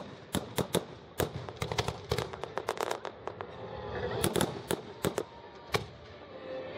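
Fireworks going off: a quick, irregular run of sharp bangs and cracks, thickest in the first few seconds and again a little past the middle.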